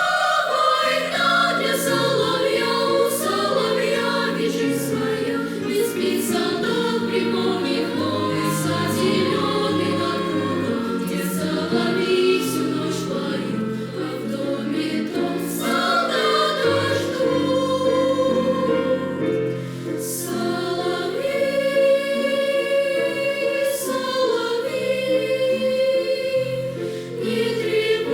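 Children's choir singing in several parts with piano accompaniment, holding long notes over sustained chords.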